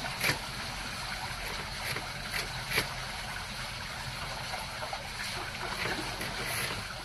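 Water washing and splashing along the hull of a boat under way, an even hiss with a few small splashes, over a low steady hum.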